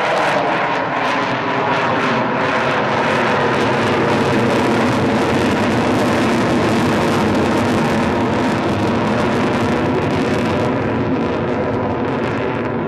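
Avro Vulcan bomber's four Rolls-Royce Olympus turbojets running loudly at full power as it climbs away. The roar holds layered tones that shift in pitch, and it eases off slightly near the end.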